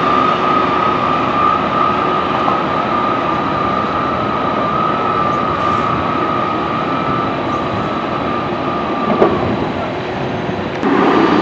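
Train running with a long, steady high-pitched squeal, as from wheels on a curve, that stops about nine seconds in; a louder rumble with a lower tone comes in near the end.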